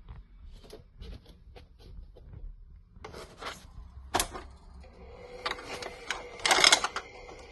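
Plastic clicks and rattles from a LeapFrog toy vacuum being handled, with a few louder rattles about three and four seconds in. A steady electronic tone from the toy sets in about five seconds in, with more clicks and a loud rattle over it.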